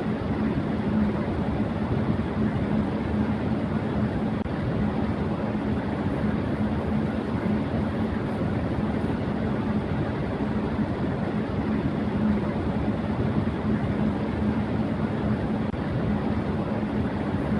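Electric fan running steadily at high speed: a constant rush of moving air with a steady low hum from the motor.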